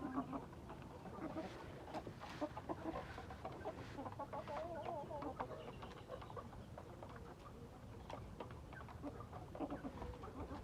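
Chickens clucking, with short wavy calls and many small clicks.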